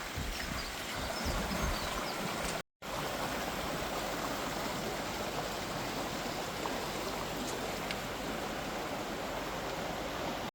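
Steady rush of running water, like a stream, with some wind buffeting the microphone in the first couple of seconds. The sound drops out briefly about three seconds in.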